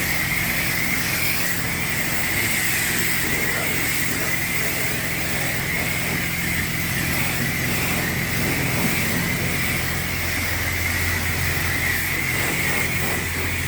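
Self-serve car wash high-pressure wand spraying steadily on the wax setting: an even hiss over a steady low hum.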